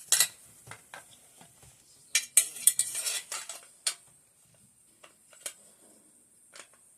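Metal clicks and clinks of AK-47 rifle parts being handled and worked on by hand during a furniture swap. There is a pair of sharp clicks at the start, a quick run of clinks from about two to three and a half seconds in, then a few single clicks further apart.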